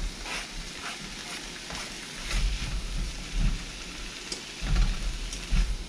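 Diced tomatoes and sautéing onion and peppers sizzling steadily in hot oil in a nonstick wok, with scattered clicks and scrapes of a spatula against the pan and a few low bumps of handling.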